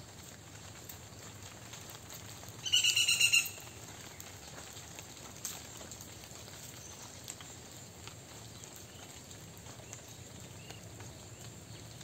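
A bird calls once about three seconds in, a loud rapid run of notes lasting under a second. Faint footsteps on a brick path run underneath.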